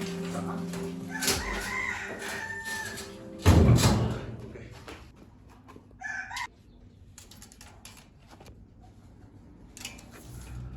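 A bird calling, with a long held call early on and a short one about six seconds in. A loud thump about three and a half seconds in, and scattered light clicks and knocks.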